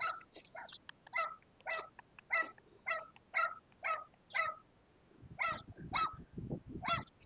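A dog barking repeatedly in short, high yaps, about two a second, with a brief pause about two-thirds of the way through.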